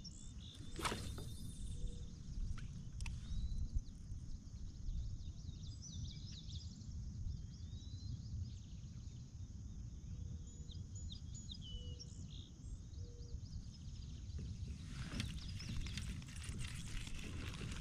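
Birds chirping and calling over a steady low rumble of wind, with a few clicks. A rustling hiss comes in near the end.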